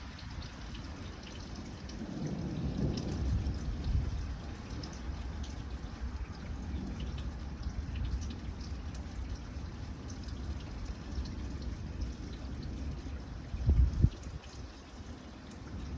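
Rain dripping and trickling steadily, with a low rumbling swell a couple of seconds in and a short, loud low thump near the end.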